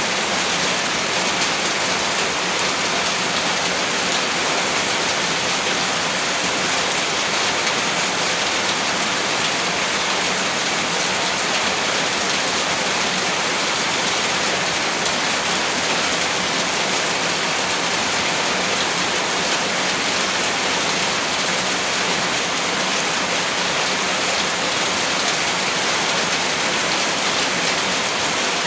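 Heavy rain falling steadily on a surface: a dense, even hiss with scattered drop ticks.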